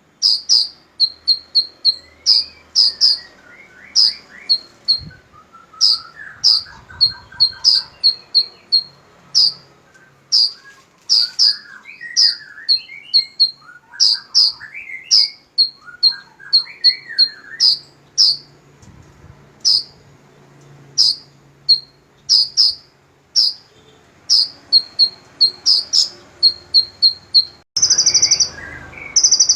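Songbirds calling: a fast run of short, sharp, high chirps in clusters, with softer, lower warbling phrases behind them. Near the end comes a denser burst of chattering.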